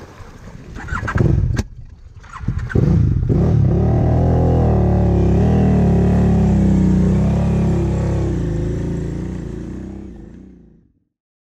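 KTM 990 Adventure's V-twin engine pulling under throttle through a flooded, muddy track, with water splashing and spraying in the first few seconds. From about three seconds in the engine note holds steady with slight rises and falls, then fades out near the end.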